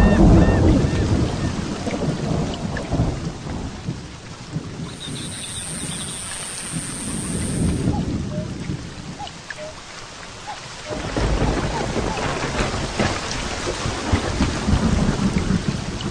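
Heavy rain falling steadily during a thunderstorm. A rumble of thunder at the start dies away over a few seconds, and another low thunder rumble begins about eleven seconds in.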